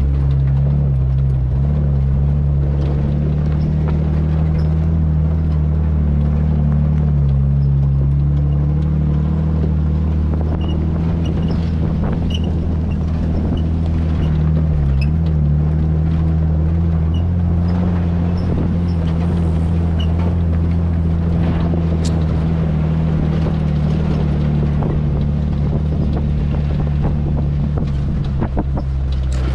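Off-road vehicle engine running steadily at an even speed while driving, a constant low drone with a few faint ticks and rattles over it.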